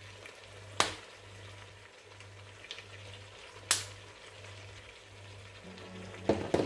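Diced potatoes sizzling as they fry in a pot, over a steady low hum. Two sharp clicks cut through, about a second in and near four seconds, with a few light knocks near the end.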